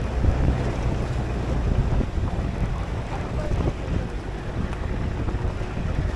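A vehicle's engine running with a steady low rumble, with wind buffeting the microphone.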